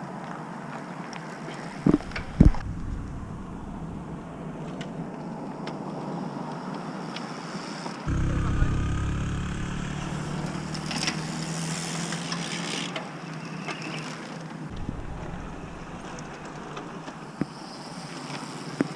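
Motor vehicle engine and road noise. The engine grows louder and lower for several seconds from about the middle, and there are two sharp knocks about two seconds in.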